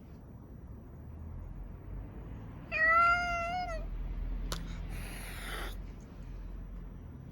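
A cat meows once, a clear call of about a second, about three seconds in. A sharp click and a short rustle follow.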